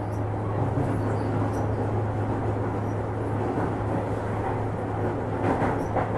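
Interior running sound of a JR East 205 series electric train motor car, a steady low hum and rumble as it runs into its terminal station. Near the end the wheels click over rail joints or points.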